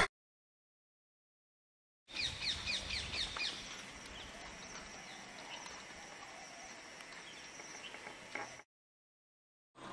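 After about two seconds of silence, a bird calls in a quick run of short, falling chirps. Fainter outdoor background with scattered bird chirps follows, and the sound cuts off suddenly near the end.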